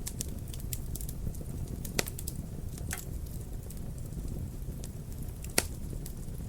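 Wood fire crackling in a fireplace. A steady low rumble carries many small crackles, with a sharp pop about two seconds in and a louder one a little over five seconds in.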